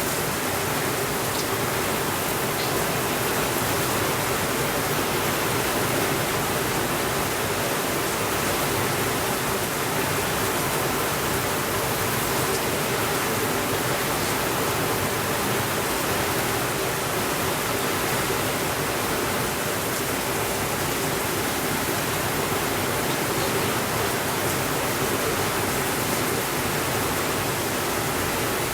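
Steady rainfall: a continuous, even hiss with no thunder, with a few faint ticks now and then.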